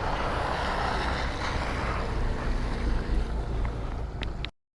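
Wind rushing over the microphone with a 2013 Suzuki GSX-R600 motorcycle running beneath it while being ridden. The sound cuts off abruptly near the end.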